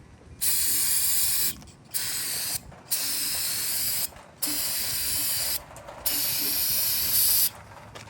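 Five bursts of high hissing spray, each about a second or so long with short breaks between, as the cast-iron engine block is sprayed down during cleaning.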